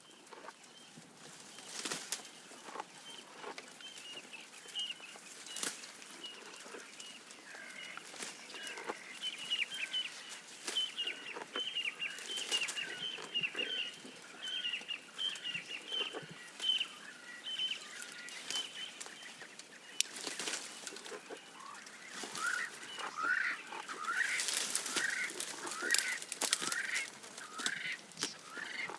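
Birds calling in a busy run of short, quick chirps, mixed with scattered sharp clicks and rustles. Near the end the calls grow louder, and a lower set of falling chirps joins in.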